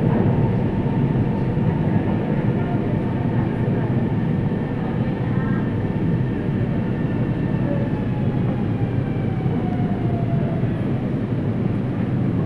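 Cabin noise inside a CRRC Sifang Type A metro train: a steady rumble with a faint electric whine that slides down in pitch over several seconds as the train brakes into the station.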